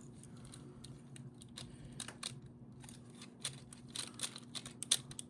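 Plastic clicks and taps of an action figure and its add-on parts being handled and snapped together. The clicks are scattered at first and come thicker from about three and a half seconds in, over a faint steady hum.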